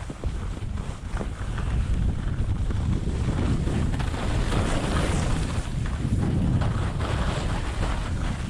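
Wind buffeting a GoPro's microphone through a foam wind cover while skiing at about 35 mph. It is a steady low rumble with a rushing hiss, with the scrape of skis on snow mixed in, and it builds up over the first second or two.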